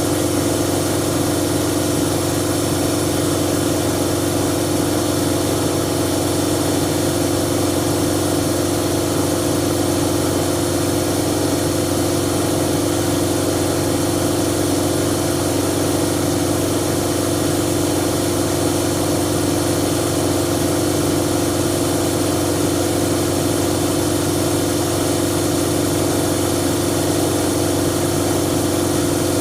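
Siemens Siwamat 7163 iQ washing machine running with a loud, steady hum and whine that holds constant, with no change in pitch or level.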